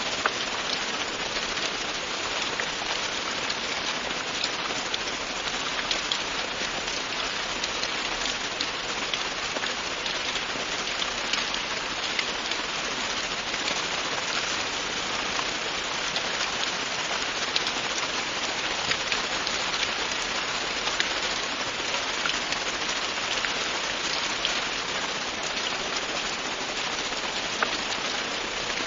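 Steady, continuous rain falling on a surface, a dense even hiss with many small drop ticks.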